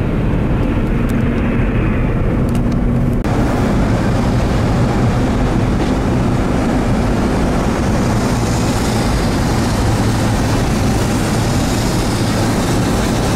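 Steady vehicle engine and road noise while driving on a snow-covered road. The sound changes abruptly about three seconds in, with more hiss after.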